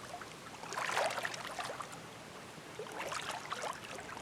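Faint, rapid clicking in two short clusters, about a second in and again around three seconds in.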